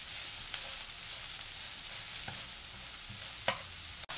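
Sliced leeks and garlic sizzling as they sauté in bacon fat in a frying pan, with a steady hiss. A wooden spatula stirs them, scraping the pan and knocking against it a few times.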